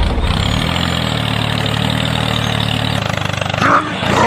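Tractor engine running steadily with an even low chug, the sound that goes with a miniature tractor pulling a rotary tiller through sand. A brief higher sound breaks in about three and a half seconds in.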